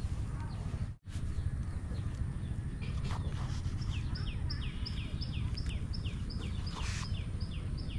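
A bird calling in a quick series of short falling notes, about three a second, starting about three seconds in, over a steady low rumble. There is a brief gap in the sound about a second in and a short hiss near the end.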